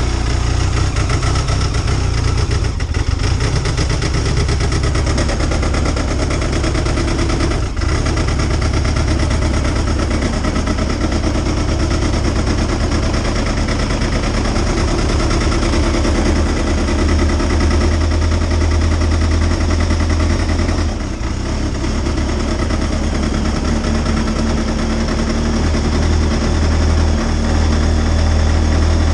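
Arctic Cat TZ1 Turbo snowmobile's three-cylinder four-stroke engine idling steadily just after a cold start at −27 °C, dipping briefly in level a few times.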